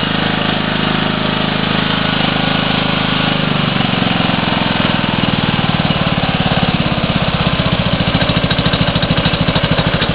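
Toro lawn tractor's Briggs & Stratton engine running just after a cold start in freezing weather. About four seconds in, the engine slows to a lower idle with more distinct firing pulses.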